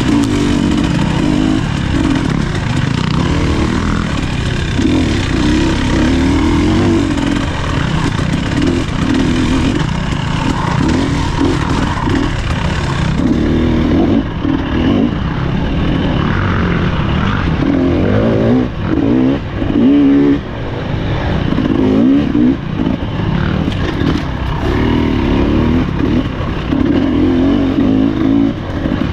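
Husqvarna TE300 two-stroke dirt bike engine being ridden hard off-road, its pitch rising and falling repeatedly as the throttle is opened and closed.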